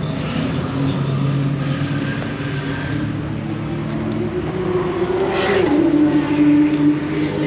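A high-performance car engine running hard on track. Its pitch climbs, then drops sharply about five and a half seconds in as it shifts up a gear, and it is loudest near the end.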